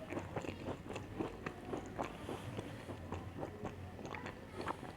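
Crunchy chocolate biscuits being bitten and chewed close to the microphone: a quick, irregular run of crisp crunches.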